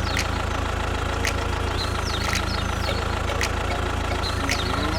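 Engine idling with a steady low rumble, with a few short high chirps over it about once a second.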